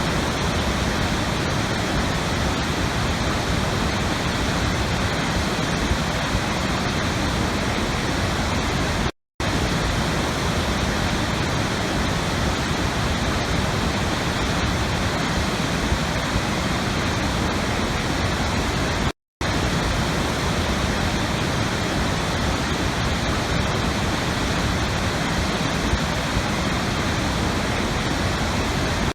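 Steady rushing water, like a waterfall or fast stream, an even hiss with no distinct events. It cuts out to silence for a fraction of a second twice, about nine and nineteen seconds in, as a recording looped every ten seconds or so.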